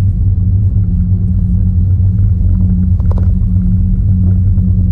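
Steady low rumble of an idling car engine, with a brief faint sound about three seconds in.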